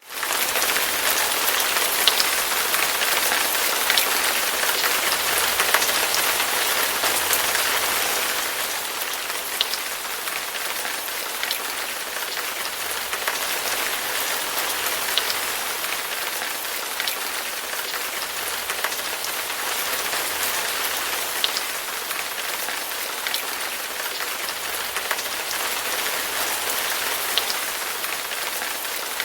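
Steady rain falling on a surface: an even hiss with single drops ticking sharply now and then, a little louder for the first eight seconds or so.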